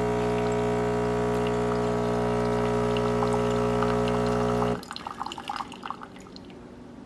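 Philips 3200 LatteGo super-automatic espresso machine's pump running with a loud, steady hum as it dispenses while the new machine is being primed. It cuts off abruptly about five seconds in, leaving faint drips and clicks.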